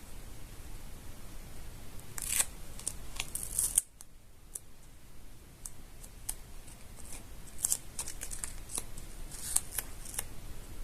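Paper being handled close to the microphone: scattered crisp crinkles and ticks, loudest in a cluster from about two to four seconds in.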